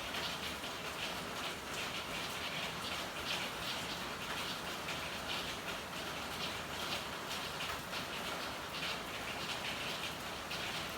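Steady rainfall, with irregular louder drips and splashes standing out over the even hiss.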